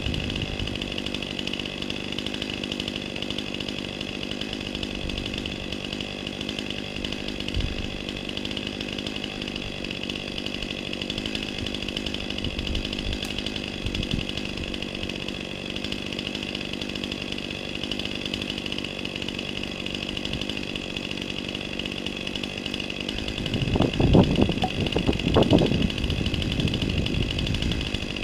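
Chainsaw running steadily at a high, even pitch, with a louder, rough stretch of noise for a couple of seconds near the end.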